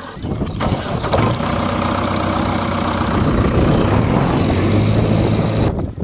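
A vehicle engine running steadily with a low, even hum, starting just after the opening and cutting off suddenly near the end.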